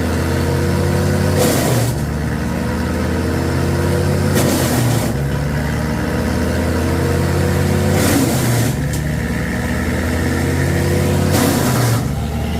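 A large engine running steadily, its pitch sagging slowly and then picking back up, with a short burst of noise about every three seconds.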